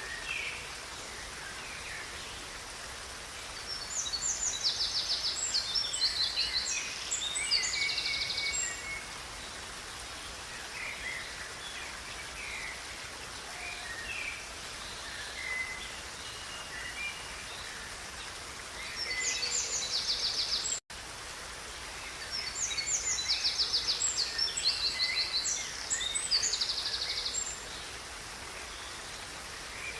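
Songbirds singing in long bouts of rapid, high trills and short chirps over the steady rush of a river. The sound cuts out for an instant about two-thirds of the way through.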